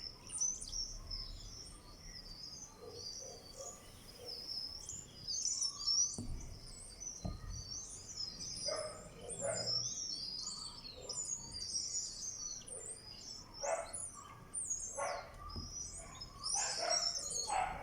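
Many small wild birds chirping together in a busy, overlapping chorus of short, high chirps, with a few louder calls about halfway through and near the end.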